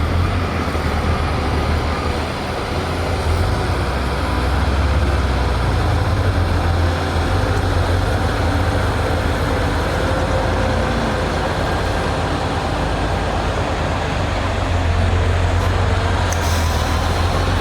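Heavy diesel earthmoving machinery running steadily with a loud low rumble.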